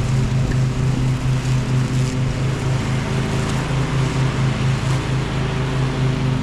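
Craftsman riding lawnmower engine running steadily, a low hum pulsing several times a second under a wash of mechanical noise, with the mower back in working order after its pulleys were replaced.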